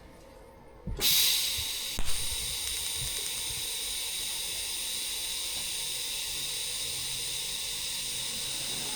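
TIG welding arc on stainless steel, struck about a second in and then burning as a steady hiss with a thin high whine. A sharp click comes about a second after the arc starts.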